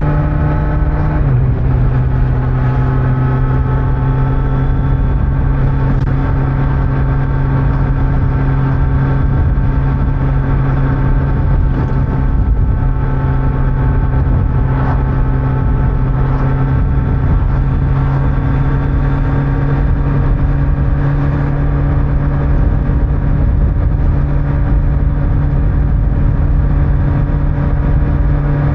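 Kawasaki Z900's inline-four engine pulling steadily at cruising speed through its stock exhaust. The note dips slightly about a second in, then holds nearly level with a slow rise, over a low rumble of wind and road noise.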